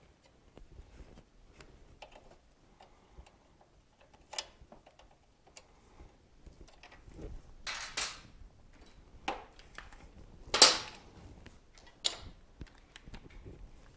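Metal tools and parts clinking and knocking during hands-on engine disassembly: scattered light clicks with a few sharper clanks, the loudest a little past the middle.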